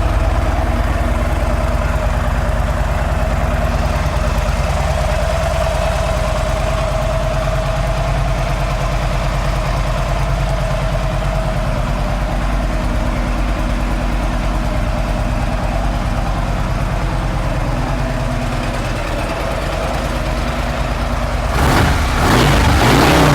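A 2012 Harley-Davidson Ultra Classic Electra Glide's Twin Cam 103 V-twin idling steadily through aftermarket S&S exhaust pipes. Near the end the sound turns louder and busier.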